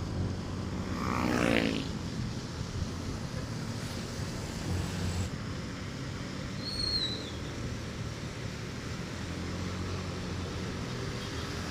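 Motorcycle engine running steadily on the move, under wind and road noise. About a second in, a short rising whine climbs sharply in pitch.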